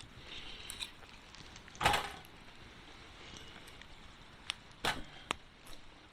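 Wood fire crackling, with a few sharp pops between about four and a half and five and a half seconds in over a faint hiss, and a louder knock about two seconds in.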